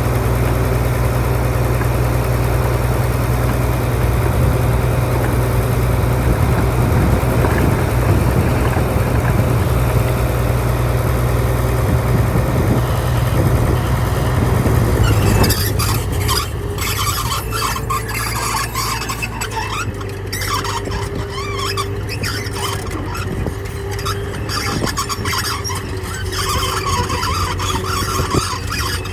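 Bulldozer's diesel engine running steadily with a deep hum. About halfway through the sound changes abruptly to irregular high-pitched squeaks and clanks over a quieter engine, typical of a crawler's steel tracks moving.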